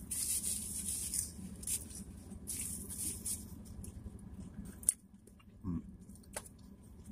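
A person eating french fries: soft chewing and mouth sounds with a few sharp clicks, over a steady low hum that drops out about five seconds in.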